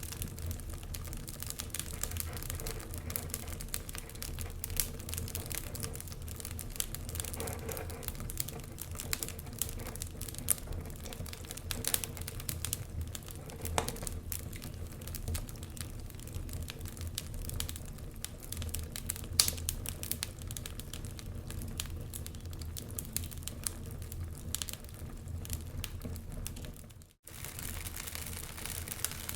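Wood fire crackling, with many small snaps and pops over a low steady rumble of wind. The sound cuts out for a split second about 27 seconds in.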